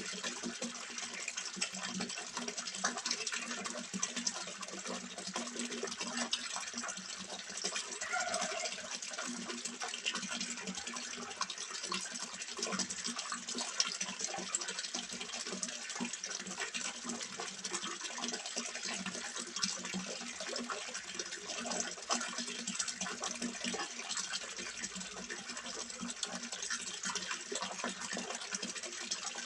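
Water splashing and trickling steadily into a small fish pond, a continuous dense patter of falling water.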